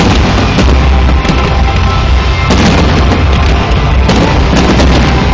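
A fireworks display going off in rapid, irregular booms and crackling as several shells burst at once, with music playing along underneath.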